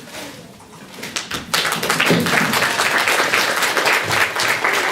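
Congregation clapping, many hands at once, starting about a second and a half in and going on steadily.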